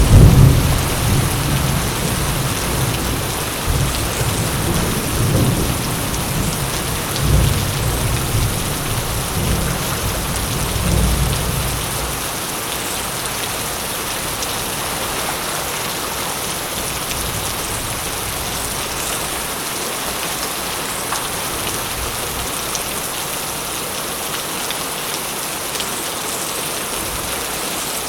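Steady heavy rain falling, with a thunderclap at the start whose low rumble rolls on in several swells for about twelve seconds before dying away, leaving the rain alone.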